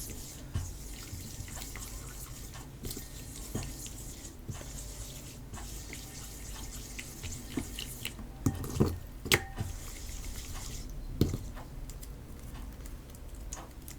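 Stiff homemade PVA-glue slime being stretched and squeezed by hand, giving scattered wet, sticky clicks and pops. A cluster of louder ones comes a little past the middle.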